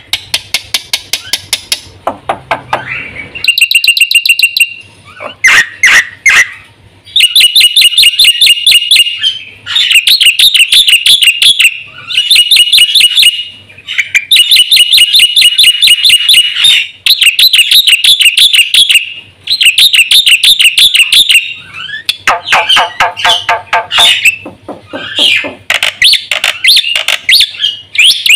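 Black-winged starling (jalak putih) singing loudly in phrases of rapid-fire repeated notes, each burst lasting a couple of seconds with short pauses between. A harsher, lower passage comes near the end. It is the bird's full song, mixed with imitations of other birds.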